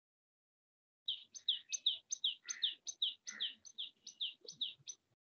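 A small bird chirping rapidly: a quick run of short, high chirps, each sliding downward, about five a second, starting about a second in.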